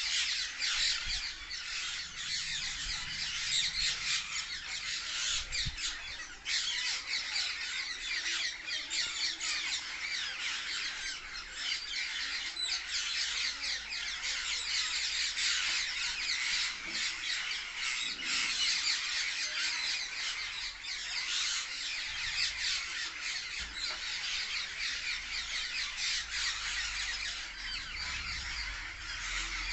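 A flock of parrots in a tree screeching and chattering, many short overlapping calls running on without a break.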